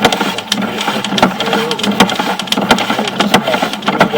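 Sewer inspection camera being pushed down a drain line, with irregular clicking and knocking from the push rod and camera head over a steady hum.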